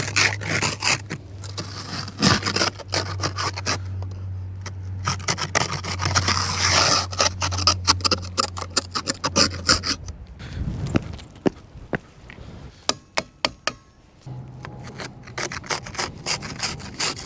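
Snow being brushed and scraped off a car's body and glass in irregular strokes, with sharp scratchy clicks. A low steady hum runs underneath, stops about ten seconds in and returns near the end.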